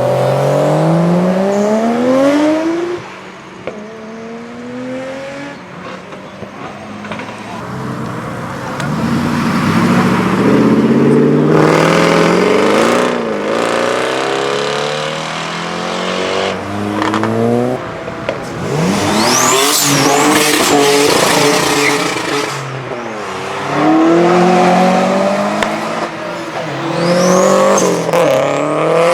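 Modified cars accelerating away one after another, each engine revving up in pitch through the gears, with high tyre squeals about twenty seconds in and again near the end.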